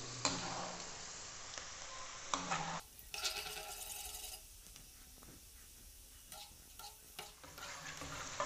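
Sliced okra frying in hot oil in an aluminium kadhai, a low steady sizzle, with a metal spoon scraping and knocking against the pan as it is stirred. The sizzle drops quieter about three seconds in, leaving a few faint clicks of the spoon.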